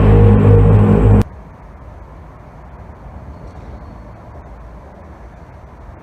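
A loud, steady droning hum of several held tones, the kind of low trumpet-like sky sound reported in viral clips, which cuts off abruptly about a second in. After it, only a faint low outdoor rumble remains.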